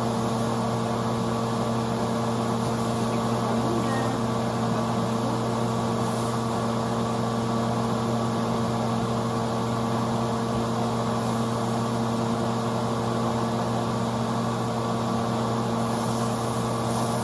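Steady mechanical hum of a running appliance motor, with an even hiss underneath and no change in pitch or level.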